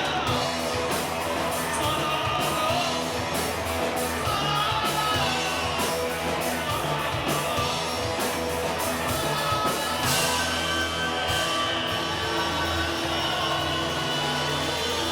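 Live rock band playing, with guitars, a steady beat and singing.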